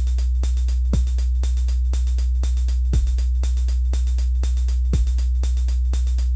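Electronic music: a steady deep bass drone under drum-machine clicks about four a second, with a deep kick drum whose pitch falls landing every two seconds.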